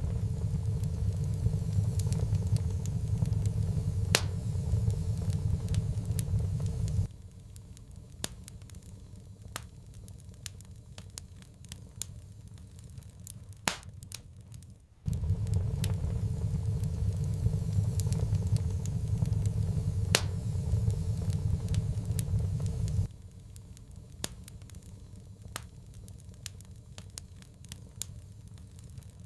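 Wood fire crackling in a fireplace, with scattered sharp pops and snaps throughout. A low rumble sits under the crackle for the first seven seconds or so, stops abruptly, and comes back for about eight seconds from roughly halfway through.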